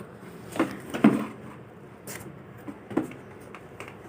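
Four or five short knocks and taps, like objects being handled and set down.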